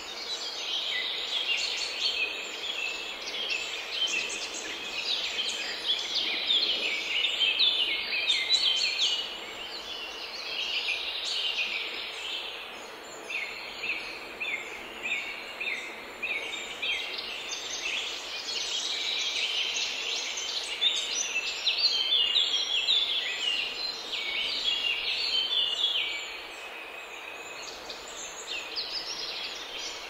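Dense chorus of many birds chirping and calling: a busy, overlapping twitter of short high notes, louder for the first nine seconds or so and again for a long stretch after the middle.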